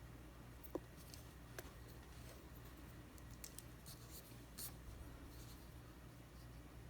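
Faint light scratching and a few small sharp clicks of hands working the small plastic parts of a shoe's wire-lace dial as it is taken apart, over a steady low hum.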